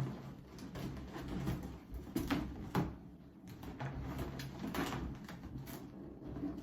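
Inflated latex balloons being handled and twisted together, with irregular rubbing and creaking scrapes as a water-filled balloon weight is wound onto a four-balloon cluster, over a steady low hum.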